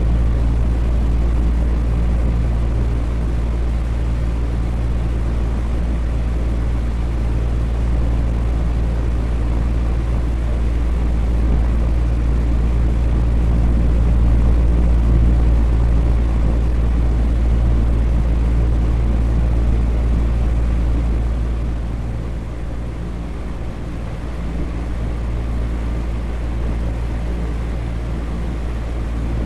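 Electric fan running steadily: a continuous low whooshing drone with a low hum, dipping slightly in level a little past the middle.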